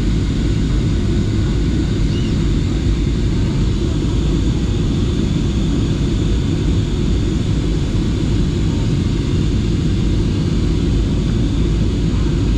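Airliner engines and airflow droning steadily, heard from inside the passenger cabin in flight.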